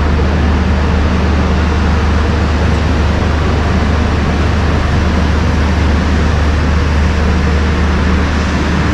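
Double-decker passenger train running, heard from on board: a loud, steady rumble with a rushing noise over it that does not change.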